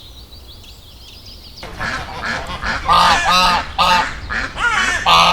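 Birds calling: faint high chirps at first, then, after an abrupt change about a second and a half in, a run of loud, repeated calls coming a couple of times a second.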